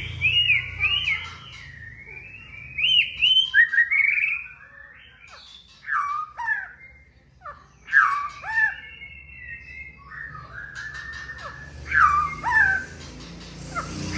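White-rumped shama (murai batu) singing a run of varied phrases: looping up-and-down whistles, sharp downward slurs and dry clicks, with short pauses between phrases.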